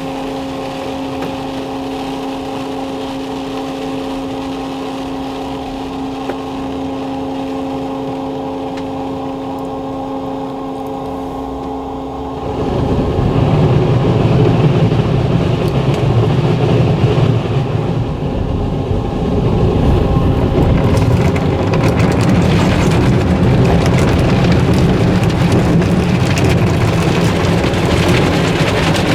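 D&S Odyssey soft-touch automatic car wash working over a car: a steady machine hum with a faint whine, then about twelve seconds in a louder, continuous rushing sound as the wash equipment works on the car.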